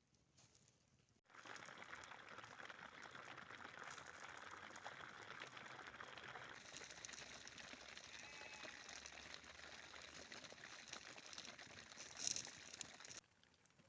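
Steady rain pattering. It cuts in about a second in and stops abruptly near the end, with a brief sharper sound just before it stops.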